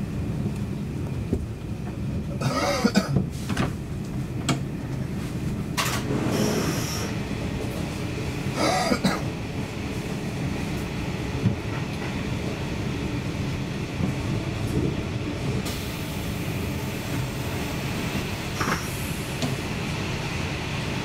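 Cabin noise inside an SJ Intercity passenger train running at speed: a steady low rumble of wheels on the track, with a few brief louder noises breaking in about 3, 6 and 9 seconds in.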